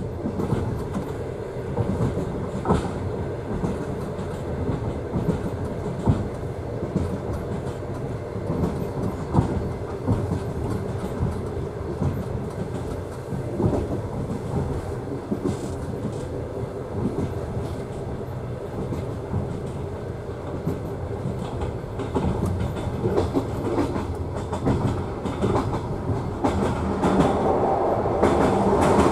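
Passenger train running along the track, heard from inside a carriage: a steady rumble with the wheels clicking over rail joints. It grows louder near the end.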